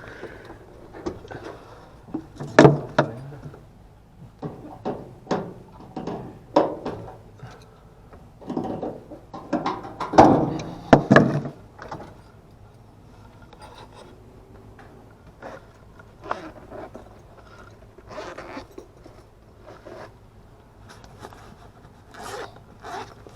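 Irregular scraping and rubbing as the blower motor assembly of an HVAC unit is handled by hand, with a few louder scrapes about two seconds in and again around ten seconds in. The blower wheel is stiff to turn by hand.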